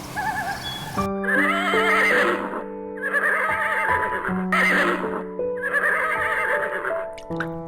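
Horse whinnying several times, each call quivering in pitch, over background music with held notes.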